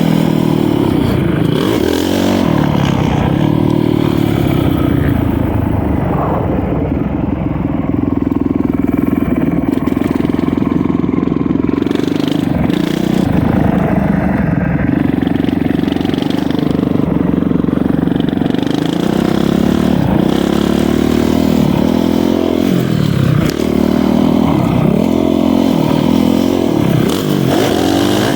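Honda CRF450R motocross bike's engine ridden hard around a track, its pitch held high through long stretches on the throttle, then dropping and climbing again and again in the later part as the throttle is chopped and reopened.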